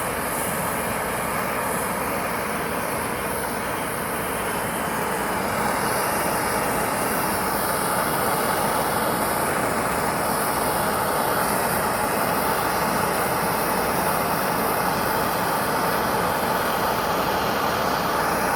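Handheld gas torch burning with a steady hiss while heating a copper air-line joint for soldering, a little louder after about six seconds.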